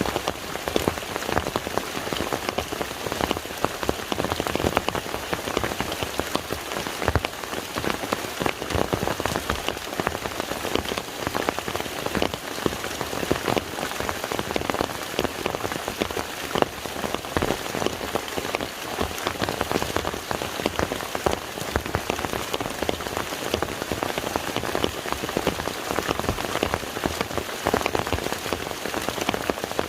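Steady rain falling on a lake's surface: a dense, even patter of countless drops splashing into the water.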